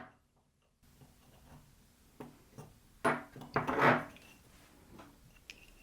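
A few knocks and scrapes of a piece of wood being handled, loudest about three to four seconds in, with no drill motor running.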